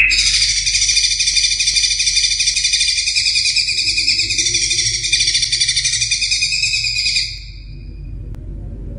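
Cucak ijo (green leafbird) singing one long, fast rippling trill that lasts about seven seconds and then stops, over a low background rumble.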